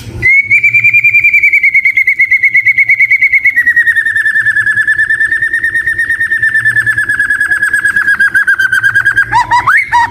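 White-rumped shama (murai batu) singing one long, rapid trill of repeated notes that drops slightly in pitch partway through, breaking into a few varied lower notes near the end.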